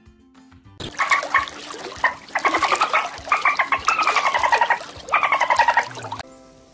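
A bird giving harsh, repeated squawking calls, starting about a second in: several calls in a row, each falling in pitch.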